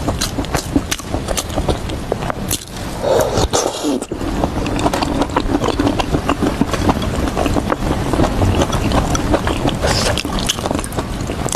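Close-miked chewing: a dense, continuous run of wet clicks and crunches from a mouth eating.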